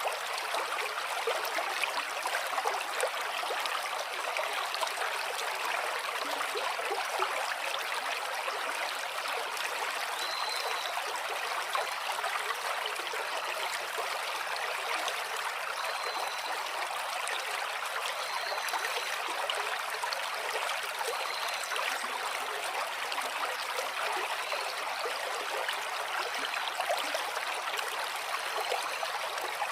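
Water flowing steadily, a continuous even rush with little low rumble.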